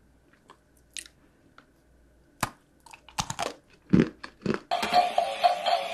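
Close-miked biting and crunching of hard candy: a few faint clicks, then a run of sharp crunches as it is bitten and chewed. A dense, continuous sound comes in near the end.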